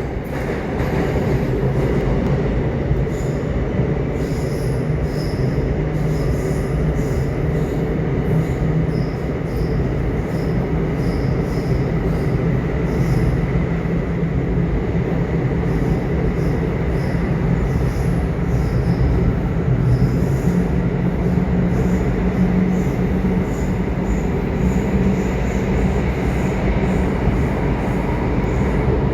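Subway train running: a steady, loud rumble of wheels on rails, with short high-pitched wheel squeals coming and going.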